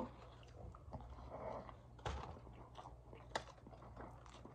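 Faint chewing of a mouthful of chicken gyro in pita bread, with a few small soft clicks; the sharpest come about two seconds in and again about three and a half seconds in.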